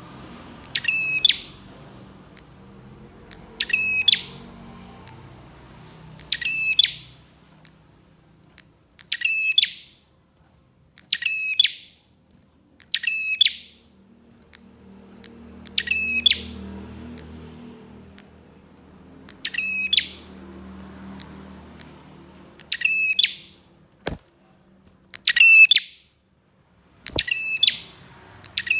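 Prinia (prenjak) calling, a short sharp call repeated about every two to three seconds, eleven times in all. A faint low hum runs beneath the calls, and there are two sharp clicks near the end.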